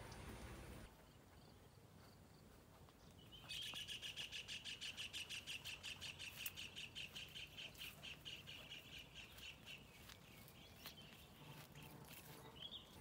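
A bird calling in a rapid, even series of high notes, about six a second. The notes start a few seconds in and fade out after about six seconds, and a single short rising note follows near the end.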